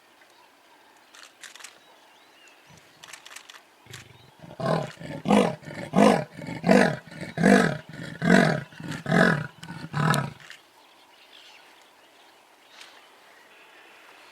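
Lion roaring: a run of about eight deep calls a little under a second apart, lasting about six seconds and loudest in the middle.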